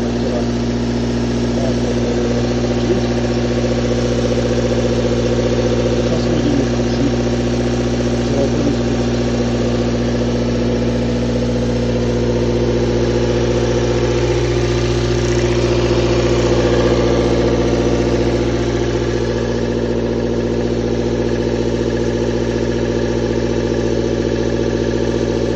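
Toyota 4A-FE inline-four engine running steadily, a little louder about two-thirds of the way through, with the knock that the owner suspects comes from the camshaft or valves.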